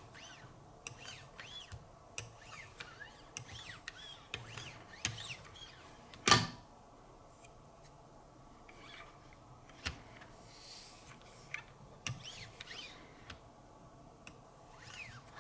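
Quiet handling of a Wicked Edge guided-rod sharpener: faint scattered squeaks and light taps, with one sharp click a little past six seconds in and a smaller one near ten seconds.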